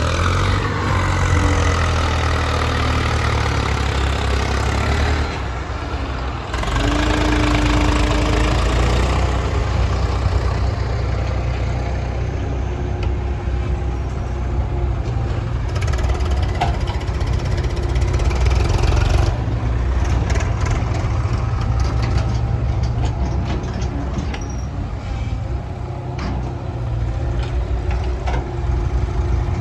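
Eicher 380 tractor's diesel engine running steadily, with its note changing a couple of times and light clicks and knocks in the later part.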